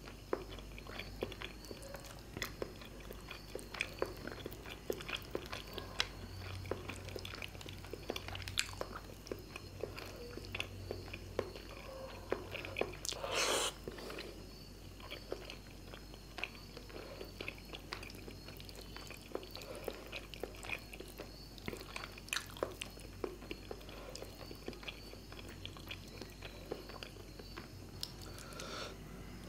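Close-up eating of fish curry and rice: wet chewing and mouth clicks, with one longer, louder noise about halfway through.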